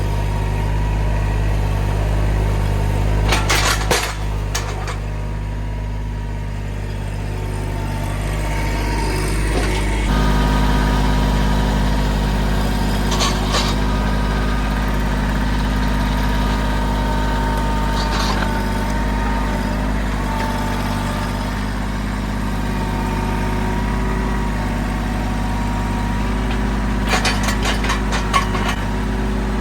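Mahindra tractor's diesel engine running steadily, its note stepping up about ten seconds in, with a few short metallic clatters.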